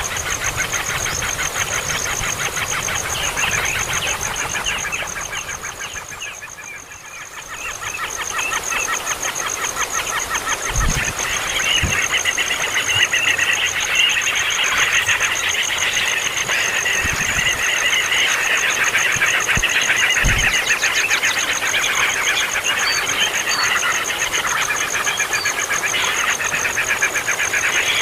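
A brood of baby birds chirping continuously in a dense, rapid chatter of begging calls, over a steady high-pitched tone, with a few soft low thumps.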